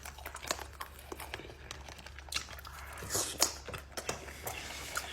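A person eating close to the microphone: chewing and biting food, with many short, sharp mouth clicks.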